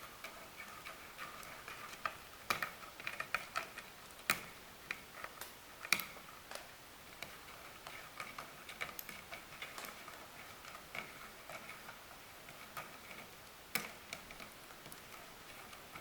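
Cats eating wet food: irregular small chewing clicks and smacks, with a few sharper clicks.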